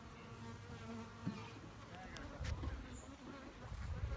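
Honeybees buzzing in flight, their hum rising and falling in pitch as they move, over a low rumble.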